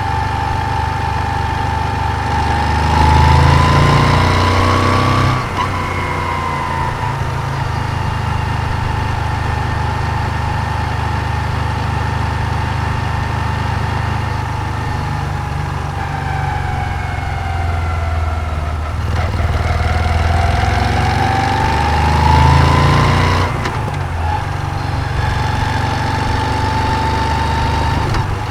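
Moto Guzzi V7's air-cooled transverse V-twin running while riding, pulling up in pitch and louder under throttle twice, about three seconds in and again around twenty seconds in. Each pull ends in a sudden drop as the throttle closes, followed by the engine easing off and running steadily at low revs.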